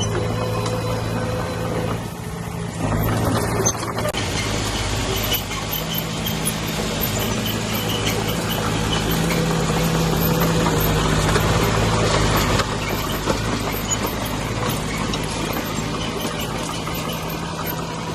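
Heavy diesel earthmoving machinery running steadily. The engine note builds over several seconds and then drops abruptly about twelve and a half seconds in.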